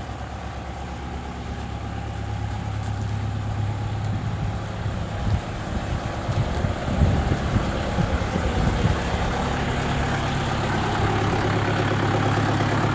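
Tractor engine running steadily, growing louder a couple of seconds in, with a few irregular knocks and clatters around the middle.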